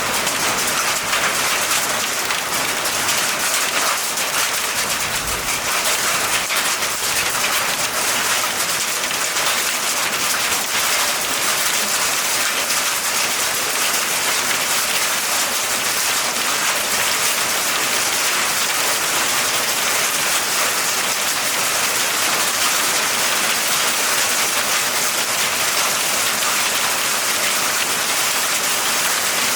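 Steady rain falling: a dense, even hiss of many drops, unchanging in loudness.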